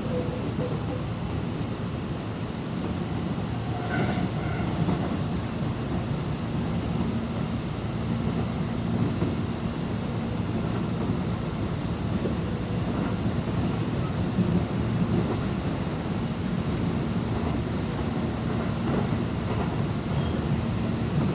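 Tobu 10050-series electric commuter train heard from inside the carriage while running between stations: a steady rumble of wheels on rail and running gear. A low steady hum joins in a few seconds in.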